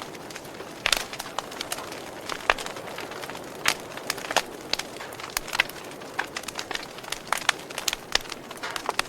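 Burning wood fire crackling: irregular sharp pops and snaps, several a second at times, over a steady soft hiss.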